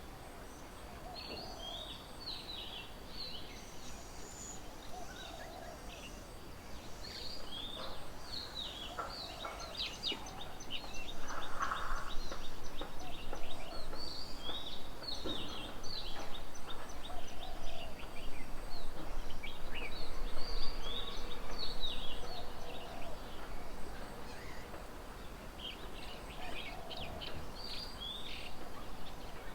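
Several wild birds calling: a busy mix of short, repeated high chirps and trills, louder for a stretch in the middle.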